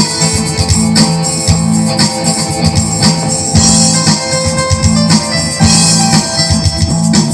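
A band playing instrumental music during a sound check: steady held notes over a low bass line, with regular percussion strokes keeping the beat.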